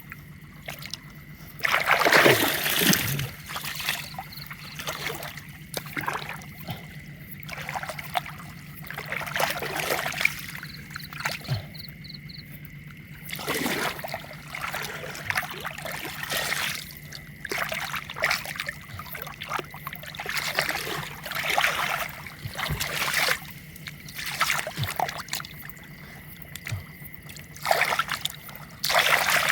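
Water splashing and trickling in irregular bursts, as from wading and working by hand in a shallow canal.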